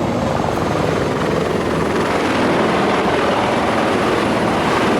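Helicopter running nearby with its rotor and turbine engine going, a loud steady noise with a fast rotor chop underneath.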